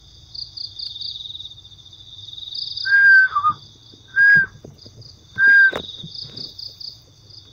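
Crickets chirping in a steady, pulsing night chorus. Three short, loud, high whistle-like notes sound about a second apart in the middle.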